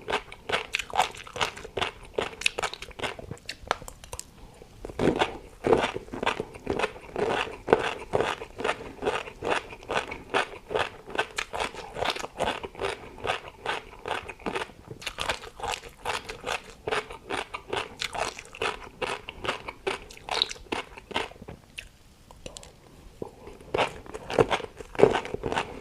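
A person chewing crisp food, with rapid crunches several times a second. There is a short lull near the end, then the crunching starts again.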